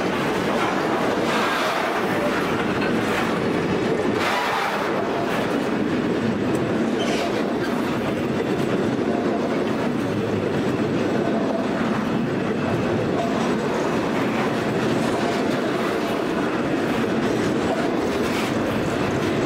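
Container wagons of a standard-gauge intermodal freight train rolling past close by: a steady rumble of steel wheels on rail, with a few faint clacks.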